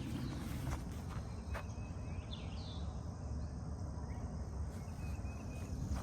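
Woodland trail ambience over a steady low rumble: a couple of soft footsteps in the first two seconds, and a short chirping bird call about two and a half seconds in.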